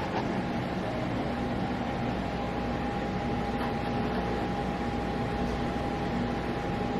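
Steady background hiss with a faint, steady high hum running under it; no distinct events.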